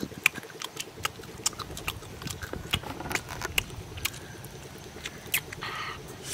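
Close-up eating sounds: a person chewing grilled fish with the mouth open, with many quick, irregular wet smacks and clicks of lips and tongue.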